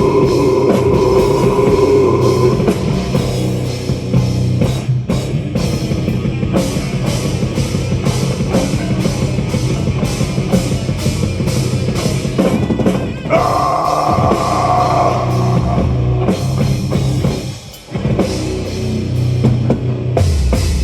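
Live heavy metal band playing an instrumental outro with distorted guitars, bass and a pounding drum kit, breaking briefly near the end before a final hit and a sudden stop.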